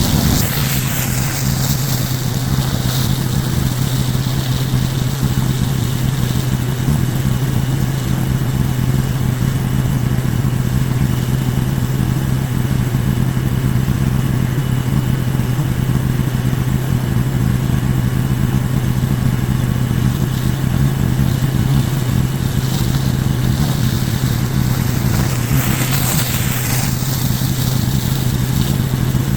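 Pressure washer engine running steadily under load, with the hiss of high-pressure water spray over it. The hiss briefly swells and sweeps about a second in and again near the end.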